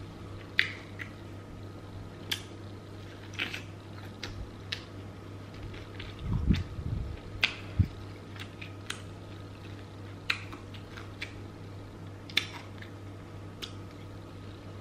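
Close-miked chewing of crispy fried chicken: scattered crunches and wet mouth clicks, with a steady low hum underneath.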